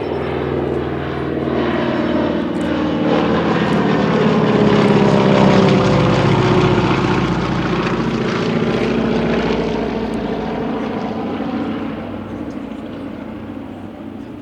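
Radial-engined propeller aircraft flying past in formation, the T-6 'Super Six' with its Pratt & Whitney R-1340 and a Beechcraft AT-11 Kansan. The engine drone swells to its loudest about five seconds in, drops in pitch as they pass, then fades away.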